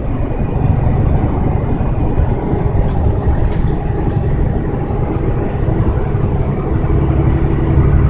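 Steady low rumble of a truck's engine and road noise while driving, heard from inside the cab.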